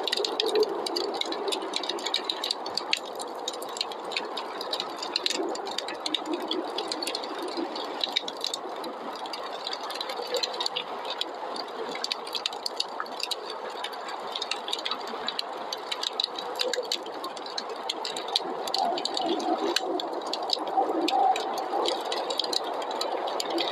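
Wood fire crackling with many small, irregular pops over a steady rush of snowstorm wind.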